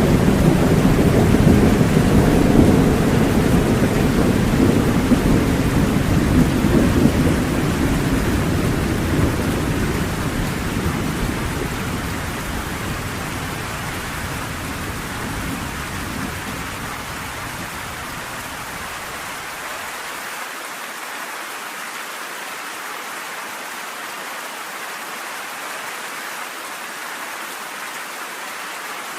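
A long roll of thunder over steady rain, the deep rumble slowly dying away over about twenty seconds and leaving only the rain falling steadily.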